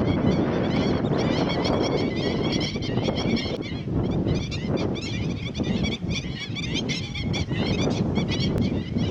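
Many birds calling together, dense overlapping short high calls with no pause, over a steady low rumble.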